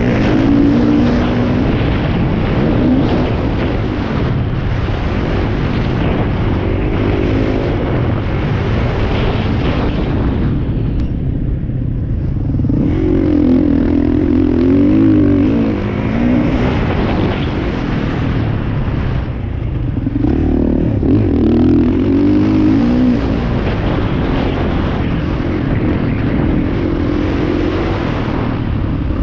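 Motocross bike engines revving as they ride, the pitch climbing and falling with the throttle, easing off briefly twice.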